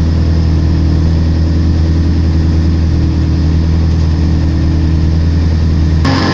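Race car engine idling steadily, heard from inside the cabin, a constant low hum that is cut short near the end.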